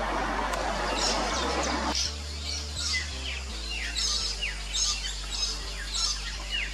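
Fairy martins chirping around their mud nests: many short, high twittering calls, several with quick falling notes. Over the first two seconds a steady rushing noise lies under them and cuts off suddenly.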